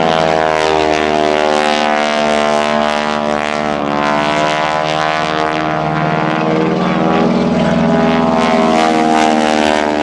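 North American T-6 Texan's Pratt & Whitney R-1340 Wasp radial engine and propeller running at high power in aerobatic flight. The pitch sags about four seconds in and then climbs back.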